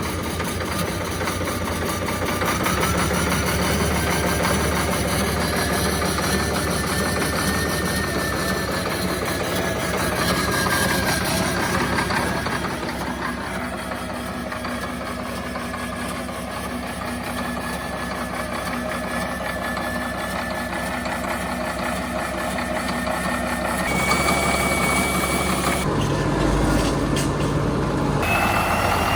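Caterpillar D6C bulldozer's diesel engine running, with a thin whine that rises in pitch a couple of seconds in. The sound changes abruptly several times near the end.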